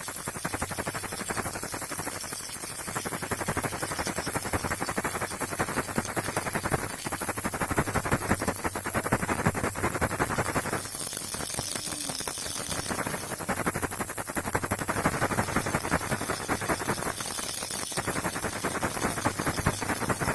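Baby rattle shaken without pause: a dense, steady stream of rapid rattling clicks, changing texture slightly a few times.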